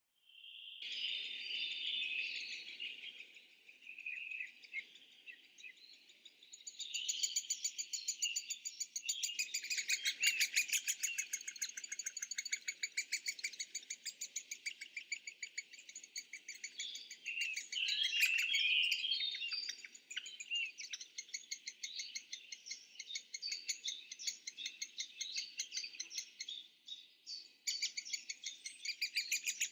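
Many birds chirping and calling at once in a dense, busy chorus of quick, high, repeated notes, starting a moment after a brief silence.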